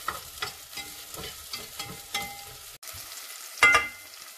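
Chopped garlic and onion sizzling in a little hot oil in a saucepan, stirred with a spatula that scrapes the pan in short strokes about three times a second. A louder knock of the spatula against the pan comes about three-quarters of the way in.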